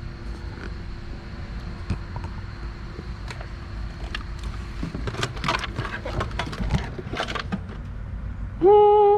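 Short clicks and rattles of parts being handled, over a steady low background hum, ending in a brief loud hummed voice sound.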